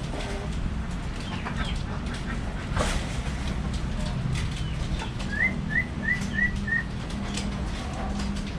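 Budgerigars chirping: scattered short chirps and clicks, with a quick run of five similar chirps a little past halfway.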